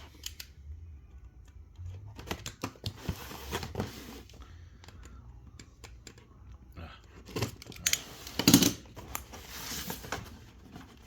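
Sticky tape being cut and torn off a cardboard model-car box, with clicks and rustling as the box is handled; the loudest tear comes about eight and a half seconds in.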